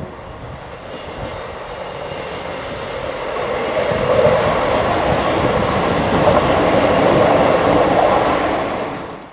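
Train passing on the line, its rumble and wheel noise building over the first few seconds, staying loud, then dropping away quickly near the end.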